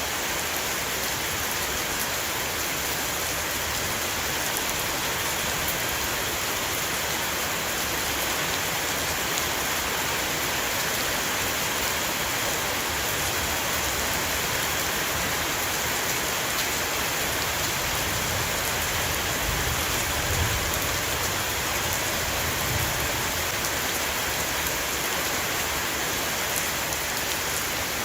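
Heavy rain shower falling on a roof: a steady, dense patter of drops, with a few brief low rumbles about two-thirds of the way through.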